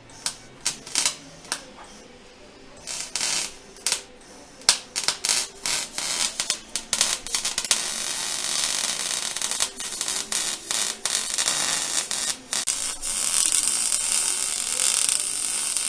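MIG welder welding an exhaust pipe joint: a run of short crackling tack bursts, then from about eight seconds in a steady sizzling crackle as a continuous bead is laid.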